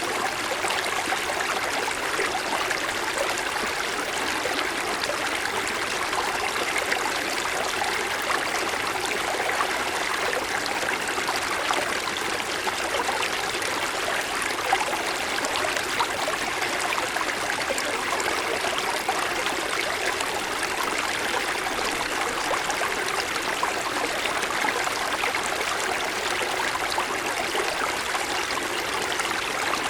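Small mountain stream running over snow-covered stones, a steady rush of water with fine gurgles and trickles.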